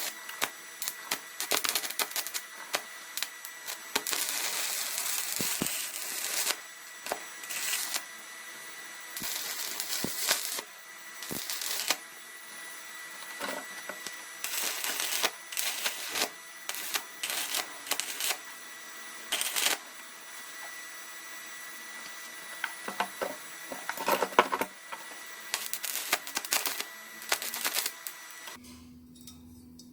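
Handling noise from hard objects: irregular clicks, knocks and clinks with several longer scraping stretches, over a faint steady high tone that stops near the end.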